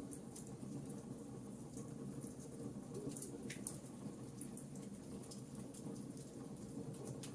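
Wood fire crackling in a fireplace: a steady low rumble of burning with frequent small sharp pops and snaps, one louder snap about three and a half seconds in.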